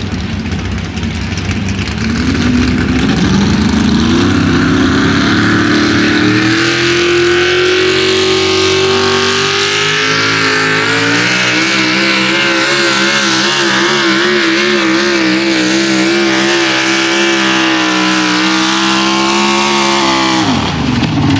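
4x4 pulling truck's engine at full throttle during a pull. Its pitch climbs over the first several seconds, holds at high revs with a wavering pitch, then drops sharply near the end as the throttle comes off.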